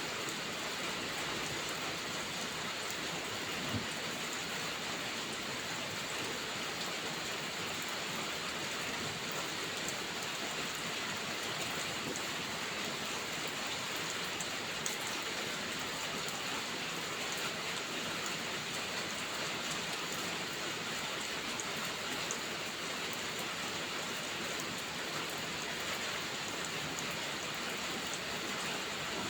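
Steady rain falling in an even hiss, with a few faint isolated ticks.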